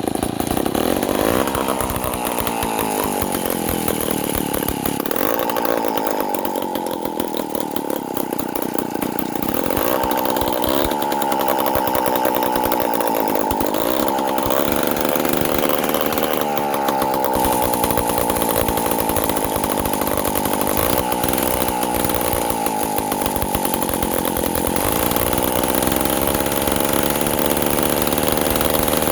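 1950s David Bradley chainsaw built by Strunk, its engine running loud, with the engine speed repeatedly dropping and rising again.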